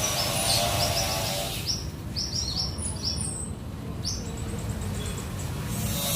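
A songbird calling in quick runs of short, high chirps, with a fast high trill a little past the middle. A low background hum drops away about two seconds in and comes back near the end.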